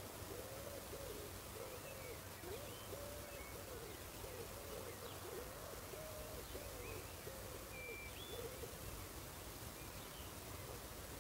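Faint rural dusk ambience with a bird giving a run of about a dozen low hooting notes, one to two a second, stopping a few seconds before the end. A few faint high chirps come in between.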